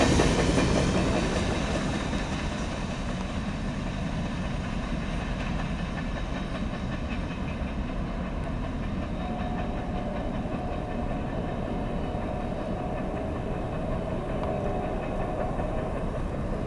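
Railroad cars rolling along the track with wheel clatter. The loudness drops over the first couple of seconds and then holds at a steady rumble, with a faint steady tone coming in about halfway.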